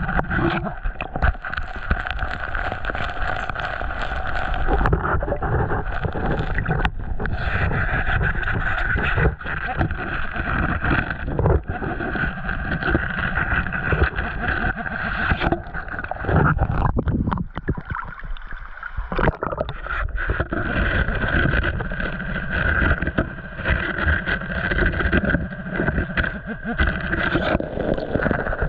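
Creek water sloshing and gurgling around a person wading and working in it, with uneven low thumps, and a short lull just before the last third.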